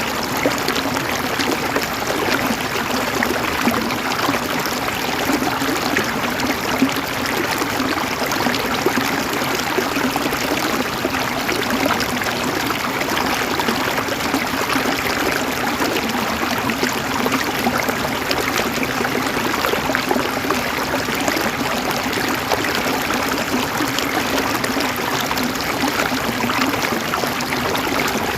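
River water flowing steadily over stones, a continuous babble and gurgle with fine splashes throughout.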